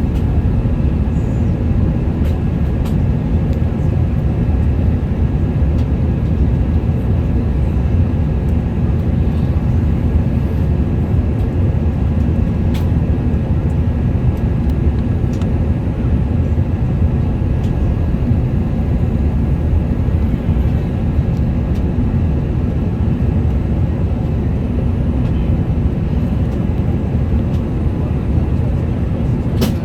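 Steady, loud rumble of an Airbus A380's engines and airflow heard inside the passenger cabin in flight, with a faint steady whine over it and a few soft clicks.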